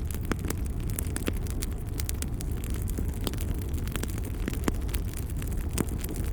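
Wood fire burning in a fireplace: a steady low rumble of flames under irregular sharp crackles and pops, about two a second.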